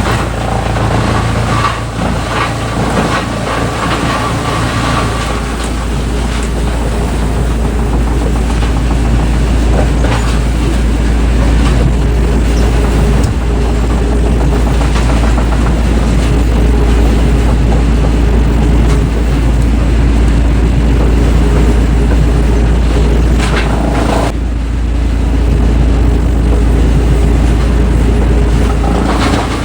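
Heavy wood-shredding machinery running, a loud, steady low rumble with rough grinding noise over it. The sound shifts abruptly about 24 seconds in.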